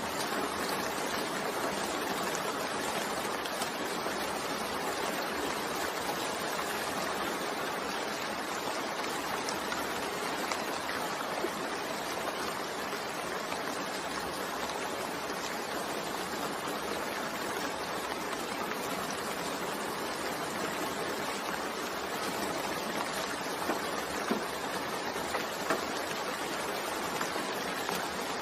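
Steady rain falling, an even hiss with a few faint drips and ticks standing out here and there.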